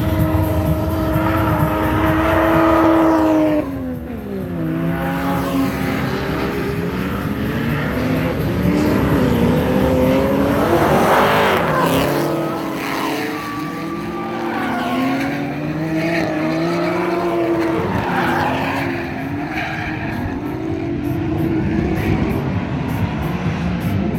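Drift cars' engines revving up and falling back as they slide through the course, with tyre squeal. A louder noisy swell comes about eleven seconds in, as a car passes close.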